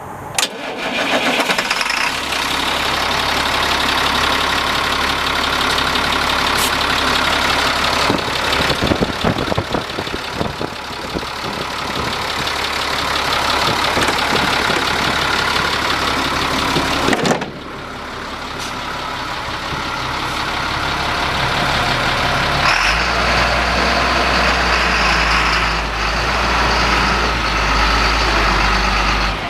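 Diesel engine of a 2000 Sterling water truck starting up and running. A little past halfway the sound drops suddenly, and for the last several seconds its low engine note is stronger.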